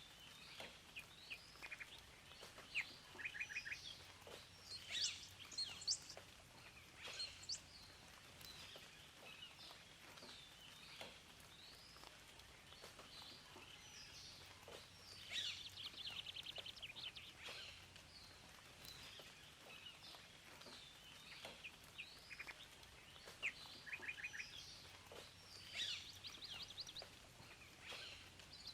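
Several wild songbirds chirping and singing, with short quick trills that recur a few times, over a faint steady background hiss.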